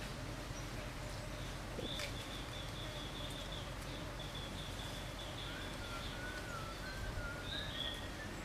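Birds calling over steady forest ambience: a high, rapid trill starts about two seconds in and runs for a few seconds, followed near the end by a lower, wavering whistled call.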